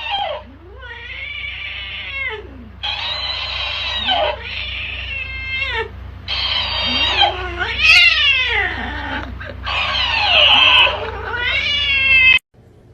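A cat yowling: about eight long, drawn-out wailing calls that rise and fall in pitch, some of them raspy. The calls cut off abruptly near the end.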